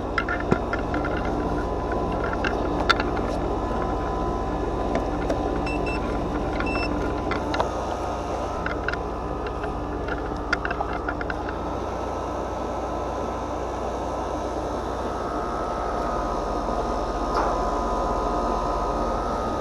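Steady mechanical running noise with a low hum, and scattered light clicks and taps during roughly the first twelve seconds.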